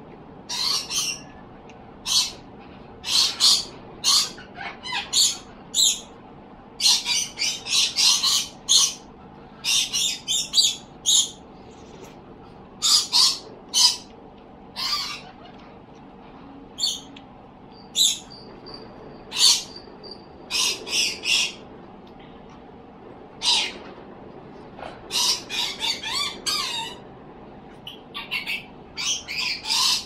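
A bird calling: short, high-pitched calls, repeated over and over in irregular clusters, with a brief thin steady whistle about eighteen seconds in.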